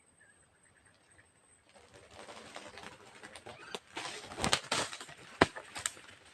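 A flock of green pigeons flying in, their wings flapping in a rushing flurry that builds from under two seconds in, with several sharp wing claps near the end.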